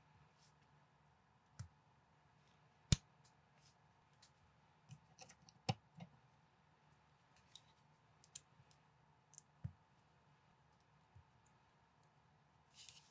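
Plastic building bricks being handled and pressed together: scattered sharp clicks at irregular intervals, the loudest about three and six seconds in, with a brief rustle near the end.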